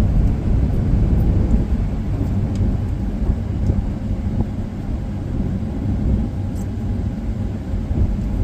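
Steady low rumble of a car being driven, heard from inside the cabin: road and engine noise with no distinct events.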